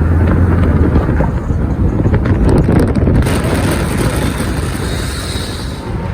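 Car engine rumbling loudly, mixed with wind buffeting on the microphone; a brighter hiss joins about three seconds in.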